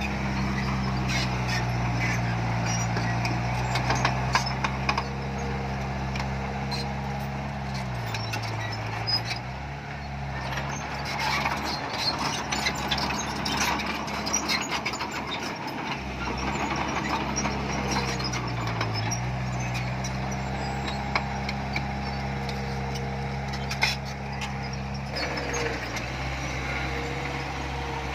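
Heavy diesel earthmoving machinery running steadily, with its engine note dipping briefly about eight seconds in and again near nineteen seconds. Scattered metallic clanks and rattles sound over it.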